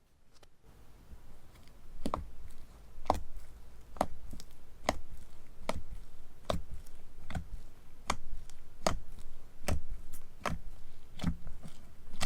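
Slime being pressed by hand, giving a sharp wet click about once a second in an even rhythm, faint at first and louder after about two seconds.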